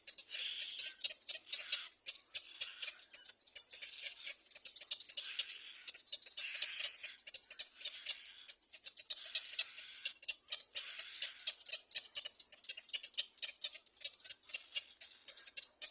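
Little black cormorant chick begging: a rapid, uneven stream of high, sharp clicking squeaks, several a second, with hoarser cries mixed in.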